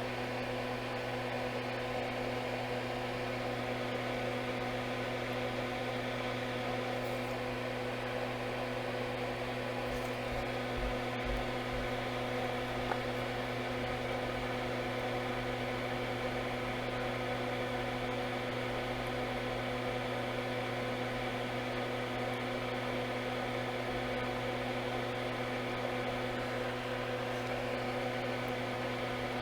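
Steady electrical hum and whir of a running machine at a repair bench, unchanging throughout, with a few faint clicks.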